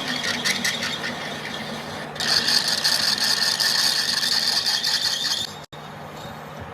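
Abrasive work on steel: quick rough scraping strokes, then a louder steady high-pitched grinding hiss for about three seconds that cuts off suddenly.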